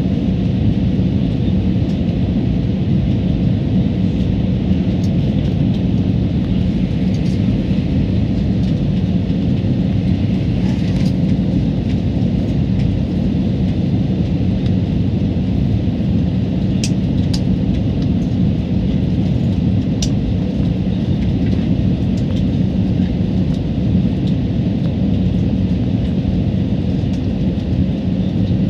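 Steady cabin noise of a jet airliner in flight: the constant rush of engines and airflow with a low hum. A few faint clicks in the second half.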